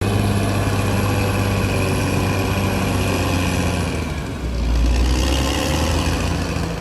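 CAT D6R XL bulldozer's diesel engine running steadily; about four seconds in its note drops deeper.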